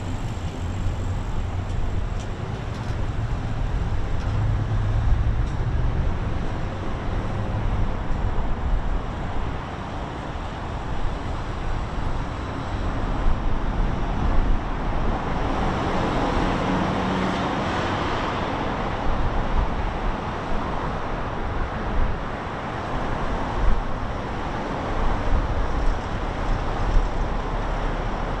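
Road traffic: a steady rumble of passing cars, with one vehicle passing louder about halfway through.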